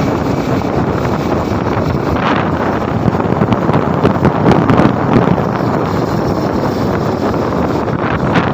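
Heavy wind noise buffeting the microphone while riding a motorbike, loud and steady, with the rush of the moving bike underneath.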